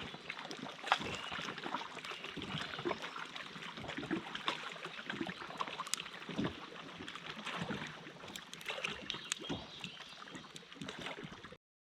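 Campfire crackling, with many irregular sharp snaps over a steady hiss; it cuts off abruptly near the end.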